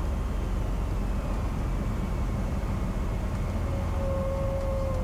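Steady drone of a Cessna 182's piston engine and propeller heard inside the cabin, as a low hum under even rushing noise.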